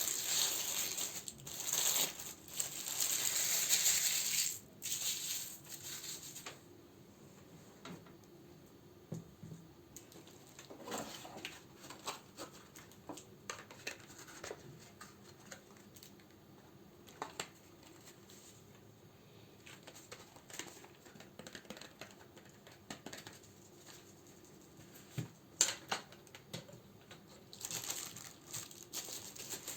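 Plastic and paper wrapping crinkling as candles are handled and sorted, loudest for the first six seconds. Then it is quieter, with scattered light taps and clicks, and the crinkling starts again near the end.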